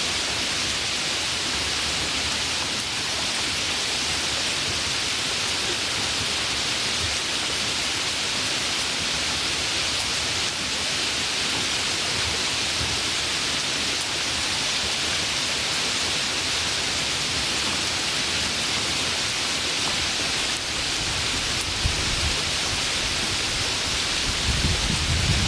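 Steady rainfall, an even hiss with no break. A low rumble of thunder builds in the last few seconds.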